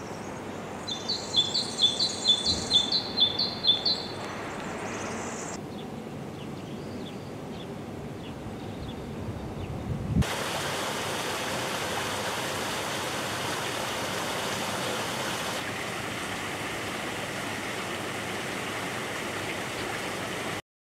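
Outdoor ambience: a songbird sings a quick run of repeated high chirps, then fainter chirps over a quiet background. About ten seconds in the sound changes abruptly to a steady, even rushing noise, which cuts off near the end.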